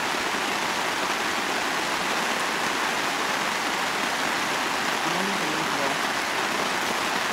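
Heavy rain falling steadily on a tarp overhead and on the surrounding ground, an even downpour hiss.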